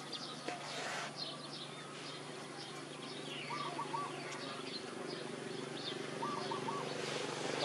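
Small birds chirping and twittering, with a short two-note call heard twice, over a low steady hum.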